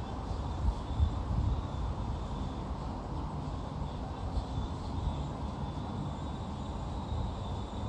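Outdoor ambience: a low, unsteady rumble with a faint thin high tone above it.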